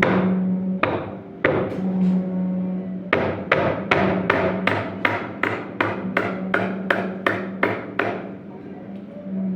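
Hammer blows, each ringing briefly: a few spaced strikes, then a steady run of about three a second for some five seconds, ending about a second before the end. A steady low hum runs underneath.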